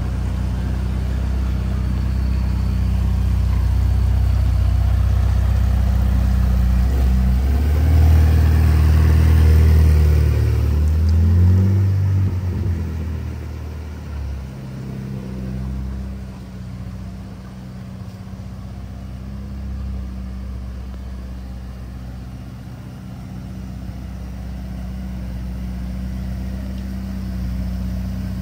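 Ferrari F8 Spider's twin-turbo V8 running. About seven seconds in it revs up, rising in pitch and getting louder for several seconds, then falls back to a steady, lower running sound.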